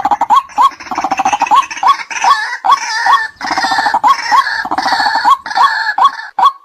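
White-breasted waterhen calling: short hooked "kwak" notes repeated about two or three times a second, with a dense, fast-pulsing croaking chatter over them that breaks off near the end.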